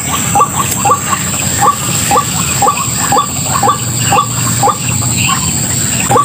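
White-breasted waterhen calling: short rising 'ruak' notes repeated about twice a second without a break, the call trappers play to lure the birds in. A steady high-pitched whine sounds throughout.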